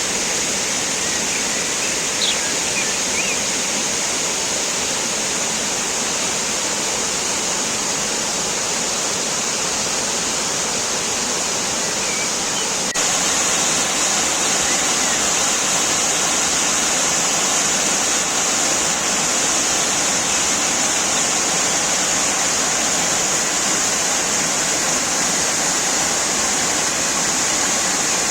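Waterfall: a steady rush of falling water, a little louder from about halfway through.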